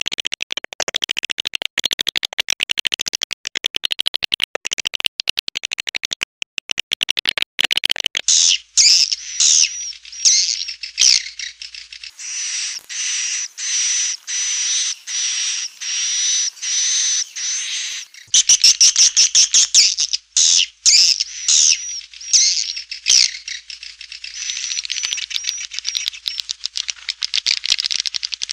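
Recorded swiftlet calls used to lure swiftlets into a nesting house: dense, rapid high twittering and chattering, with a run of evenly spaced high-pitched calls, nearly two a second, in the middle.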